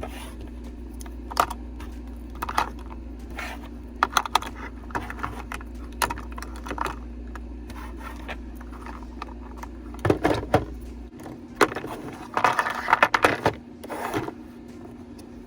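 Small makeup pigment jars clicking and clattering against each other and the organizer as they are handled and set into a compartment, in scattered sharp knocks with two busier bursts of clatter near the end.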